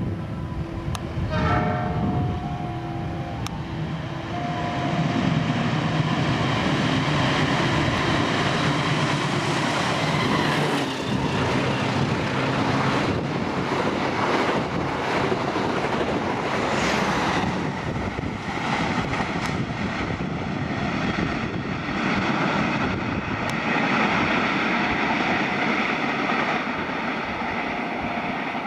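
A freight train of steel-coil wagons and container flats passing: the locomotive horn sounds in short held notes in the first few seconds, then the steady noise of the wagons' wheels running on the rails carries through.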